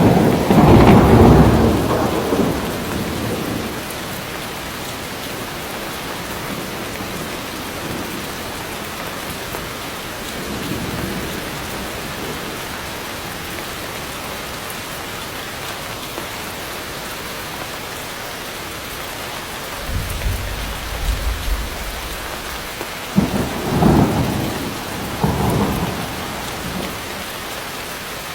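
Steady heavy rain with thunder: a loud clap at the very start that rolls off over a few seconds, a deep low rumble about twenty seconds in, and a few more claps near the end.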